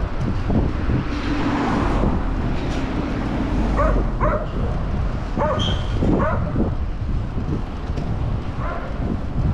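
A dog barking a few short times, about four and six seconds in and once more near the end, over wind on the microphone and low traffic rumble.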